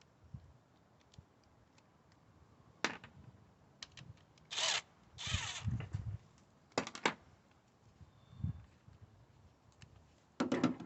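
A hand ratchet with a 10mm socket working the ignition coil bolts on a Honda Civic engine, in short ratcheting bursts, with scattered clicks of metal tools and parts being handled.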